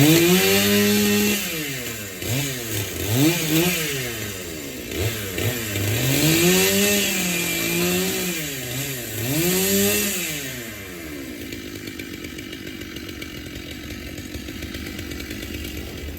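Chainsaw engine revved up and down repeatedly for about eleven seconds, then dropping back to a steady idle.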